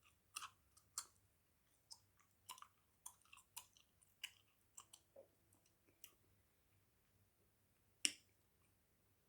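Hubba Bubba bubble gum chewed close to the microphone: a string of short, sharp, wet clicks about every half second for some six seconds, then a pause and one louder snap near the end.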